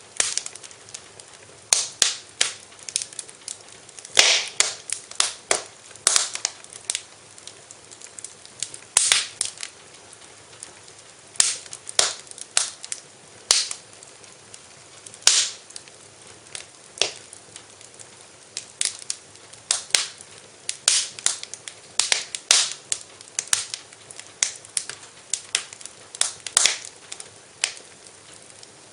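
Wood fire crackling in a fireplace: irregular sharp pops and snaps, some clustered and a few much louder, over a faint steady hiss.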